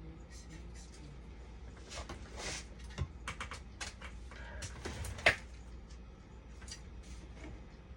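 Small clicks, taps and rustles of hand tools and parts being handled during repair work, with one sharper click about five seconds in, over a steady low hum.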